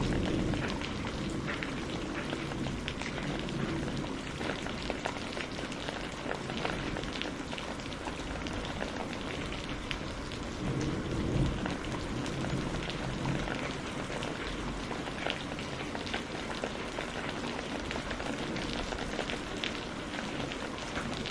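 Steady rain with scattered drops ticking on a surface, and a low rumble of thunder at the start and again about halfway through.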